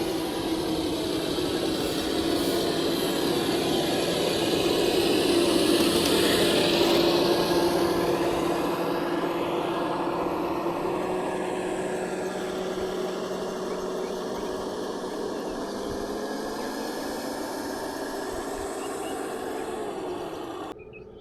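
A motor running steadily with a low hum. It grows louder for the first third, eases off, and cuts off abruptly near the end.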